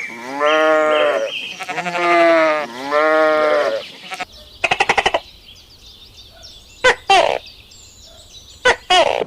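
Three drawn-out bleats in a row, each rising then falling in pitch. A short rapid buzzing rattle follows about five seconds in, then a few quick sweeping chirps near the end.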